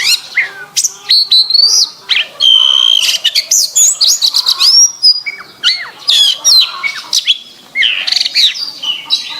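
Domestic canary singing a continuous song of rapid trills, whistled sweeps and chirps, with one held note about two and a half seconds in.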